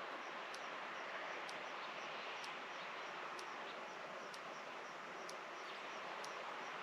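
Rural outdoor evening ambience: a steady hiss with a faint, high click repeating about once a second.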